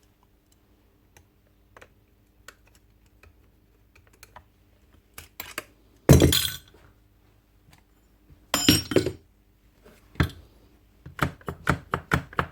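Metal tool and hammer parts clinking and knocking on a workbench as a Bosch 11318EVS hammer's front end is taken apart: light scattered clicks, two louder knocks about six and nine seconds in, and a quick run of knocks near the end.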